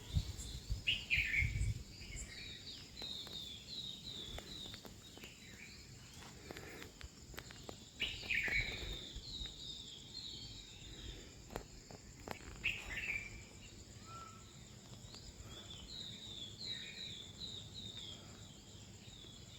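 Birds chirping in runs of quick, short notes, with louder calls three times, over a steady high insect drone. A low rumble of wind on the microphone fades in the first couple of seconds, and a few sharp ticks come through.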